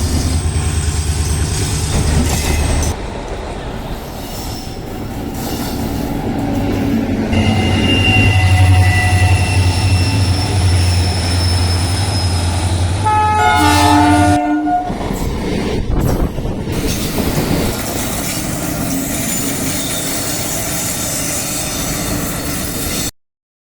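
Indian Railways trains passing, with a locomotive horn blowing long and dropping in pitch near its end, over the rumble and clatter of wheels on the rails. The sound changes abruptly several times, as if cut between separate takes.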